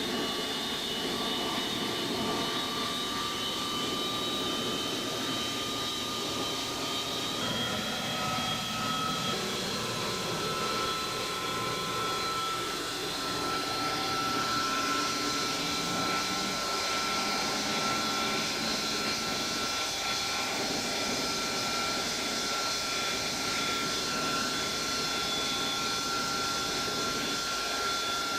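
Avro Vulcan B2's Bristol Olympus turbojet engines running on the ground, a steady jet whine and rush. One of the whining tones steps up in pitch about a quarter of the way in, and the high hiss grows around halfway.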